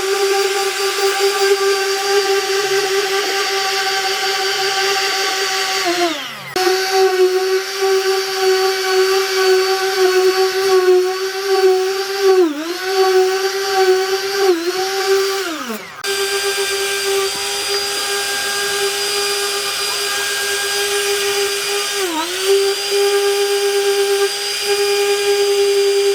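Handheld electric power tool running at speed with a steady whine. Its pitch dips briefly several times as it takes load, and twice it winds down and picks up again.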